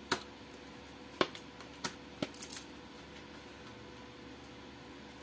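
Tarot cards being handled and set down on a table: a few short, sharp clicks and taps in the first half, then quiet room tone.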